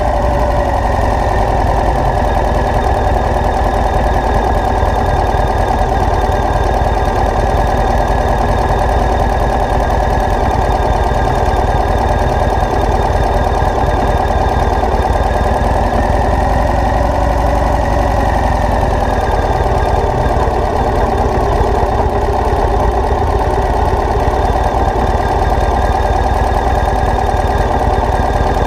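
Vehicle engine running steadily, a loud continuous rumble with no revving.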